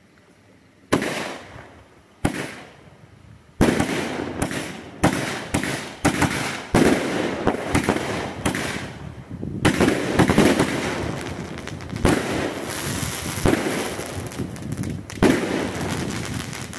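Homemade firework cake firing. A sharp bang comes about a second in and another a second later, then shots and bursts follow about two a second. The crackling between them thickens into an almost unbroken crackle in the second half.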